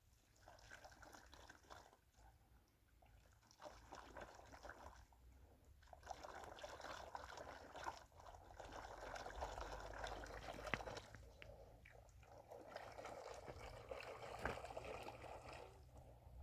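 Faint water pouring and trickling in several stretches of a few seconds each, with short pauses between them.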